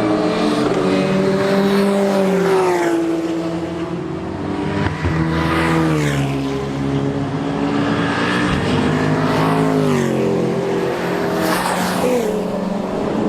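Race car engine running hard on track, its pitch dropping in steps about four times.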